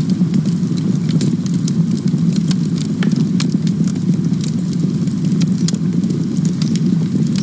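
Campfire burning: a steady low rumble of flame with frequent sharp crackles and pops from the burning wood.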